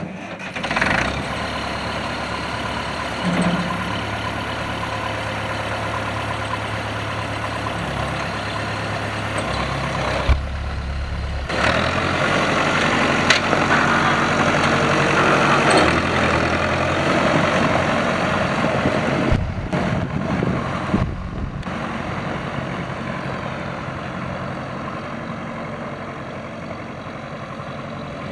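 Massey Ferguson tractor engine running steadily at idle. It starts up sharply about a second in and grows louder for a few seconds in the middle before settling back.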